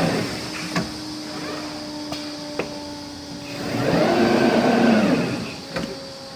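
CNC glass-cutting machine running: its drive motors whine up and fall back in pitch as the cutting head travels, over a steady hum, with a few sharp clicks.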